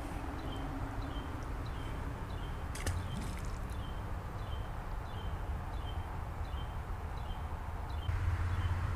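A bird repeating a short, high chirp about twice a second, over a steady low background rumble; one sharp click about three seconds in.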